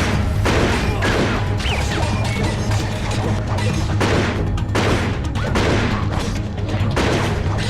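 Action-film fight soundtrack: a steady low, droning music score overlaid with repeated sharp hits, crashes and impacts of a hand-to-hand fight, spaced irregularly every half second to two seconds.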